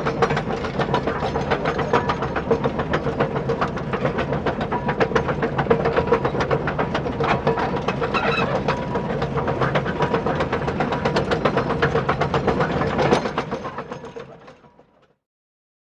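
A toy RC construction vehicle's small electric motor and gears running, a steady whine under a fast, even rattle of clicks. It fades out near the end.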